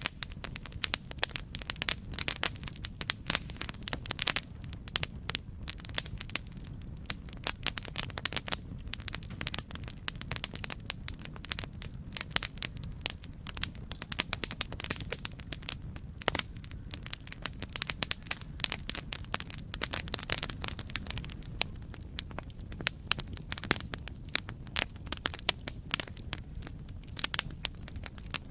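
Campfire crackling: a dense, irregular run of sharp pops and snaps from burning wood over a steady low rumble.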